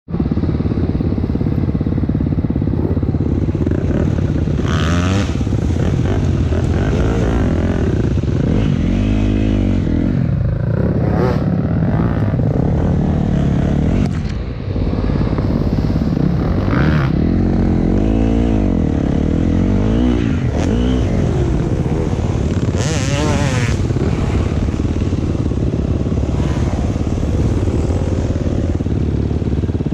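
A vehicle engine running under load, its pitch rising and falling again and again as it revs up and eases off, with a short hissing noise about five seconds in and another near the end of the second third.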